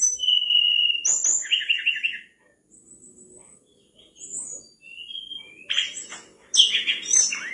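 Mangrove blue flycatcher singing: a run of clear whistled phrases, a held note, quick trilled notes and high thin notes, with a short pause midway.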